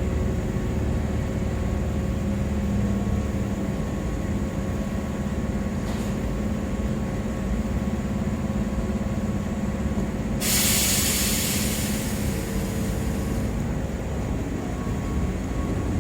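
A Keihan 1000-series electric train standing at the station with a steady low electrical hum. About ten seconds in comes a burst of air hiss lasting about three seconds, as from the train's air brakes being released before it pulls out.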